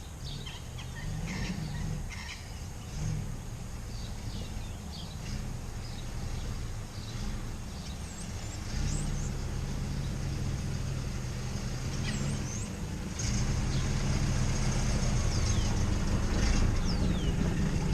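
A vehicle engine runs steadily and gets louder about two-thirds of the way through, while small birds chirp over it.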